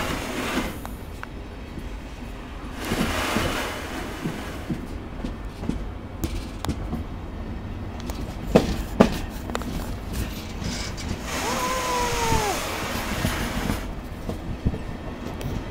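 Passenger train running on the rails, heard from inside the carriage: a steady low rumble, two sharp wheel clacks over rail joints about halfway through, and a brief whine that rises and falls a few seconds later.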